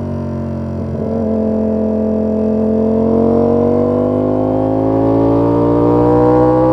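Ducati Panigale V4 S's 1103 cc V4 engine pulling under throttle. It gets louder about a second in, then its pitch rises steadily as the bike accelerates.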